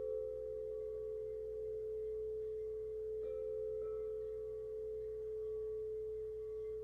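Quartz crystal singing bowls ringing in a steady, sustained hum on one low-middle pitch, with a second, slightly higher bowl tone fading in and out over it and a couple of faint taps about three seconds in.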